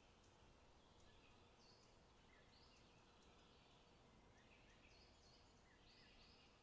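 Faint forest ambience: small birds calling over and over in the distance above a steady low hiss.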